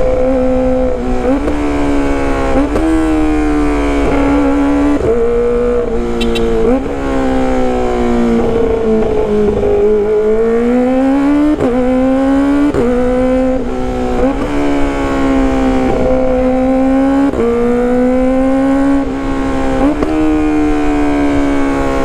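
Kawasaki ZX-25R's 250 cc inline-four running at high revs under way, through a loud exhaust. Its pitch jumps abruptly every second or two with gear changes, and dips and climbs again about halfway through.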